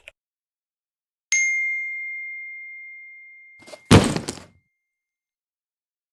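A single bell-like ding that rings out and fades slowly over about two and a half seconds, followed about four seconds in by a short, loud, deep thump.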